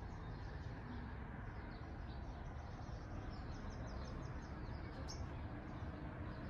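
Small birds chirping in quick, repeated twitters over a steady low background hum, with one sharp click about five seconds in.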